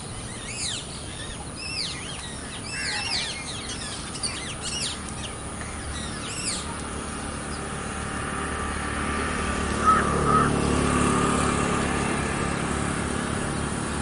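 Birds calling in quick, arching chirps over the first half. In the second half a steady motor hum grows louder.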